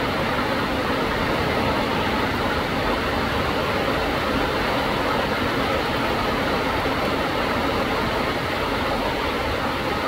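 Heavy rain pouring down through tree foliage, a dense, even hiss.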